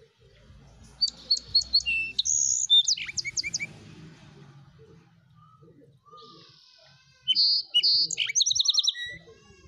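A songbird singing two phrases of varied chirps and quick trilled notes: the first starts about a second in, the second near the end.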